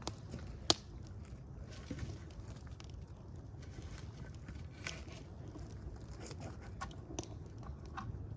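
Wood fire crackling: a steady low rumble of flame with scattered pops, one sharp loud pop under a second in.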